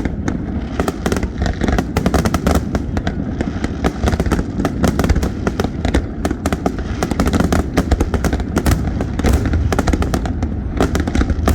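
Aerial fireworks display going off in rapid succession: a dense run of bangs and crackles over a continuous low rumble of booms.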